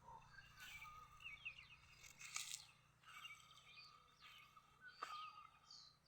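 Faint chirps of small birds over a steady high hum, with two sharp clicks, about two and a half seconds apart.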